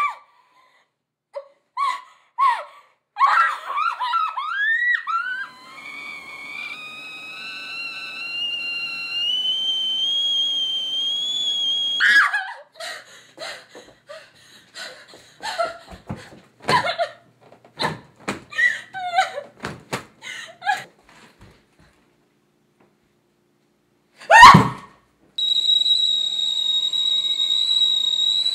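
A tea-kettle whistle: a few short squeals, then a high whistle that climbs slowly in pitch as if coming to the boil, then a string of short sharp squeals and knocks. A loud bang about twenty-four seconds in is followed by a steady, unwavering high kettle whistle.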